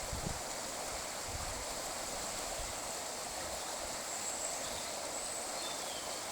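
Water pouring over a river weir: a steady, even rush, with a few faint high chirps about four to five seconds in.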